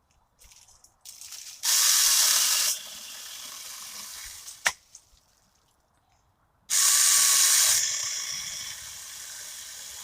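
Saker 20V cordless mini chainsaw cutting through a green branch about 4 inches thick, in two loud spells of about a second each, the first about 2 s in and the second near 7 s. Each spell falls away into a quieter steady run. A single sharp click comes between them.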